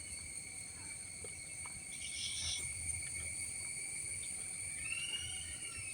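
Steady, high-pitched drone of singing insects, several constant tones layered together. A short chirp comes about two seconds in, and a brief whistle rises and falls near the end.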